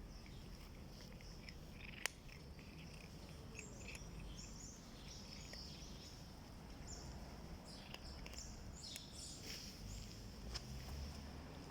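Faint, short, high chirping animal calls, scattered throughout, with a sharp click about two seconds in and another near the end.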